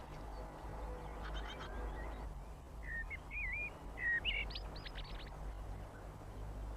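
Small garden songbird calling: a run of short chirps, then warbled notes and a few sharp, high upward calls, loudest about four seconds in. A steady low hum runs underneath.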